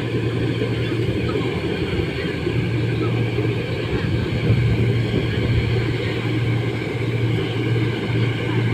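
Rice combine harvester engine running steadily under load, a continuous low hum with machinery noise and no change in speed.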